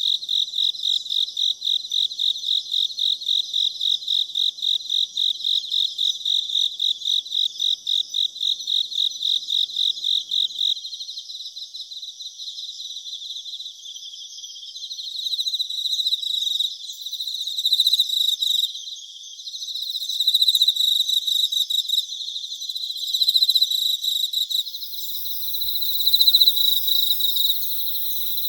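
Crickets and other night insects calling: a rapid, even, high-pitched chirping of about five chirps a second that stops about eleven seconds in, followed by a continuous high trill that swells and fades.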